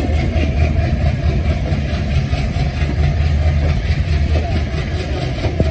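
ALCO diesel locomotive engine running with a steady, deep drone.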